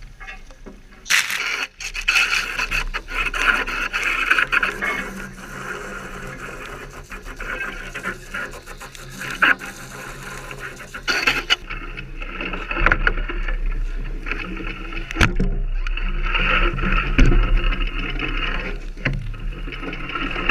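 Iron Horse Yakuza Ojiki downhill mountain bike riding over a dirt trail: a rushing noise of tyres on dirt and rocks with frequent knocks and rattles, starting suddenly about a second in, easing in the middle and picking up again near the end.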